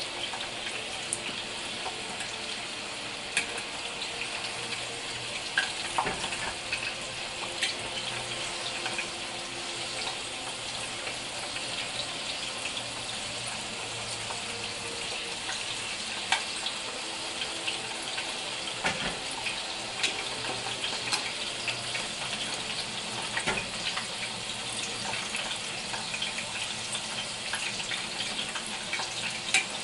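Battered trout frying in hot oil in a skillet: a steady sizzle with frequent small pops and crackles, and now and then the light clack of metal tongs in the pan.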